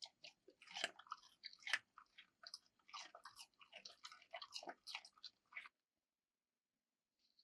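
Close, crunchy chewing: a quick, irregular run of bites and crunches that stops abruptly after about five and a half seconds.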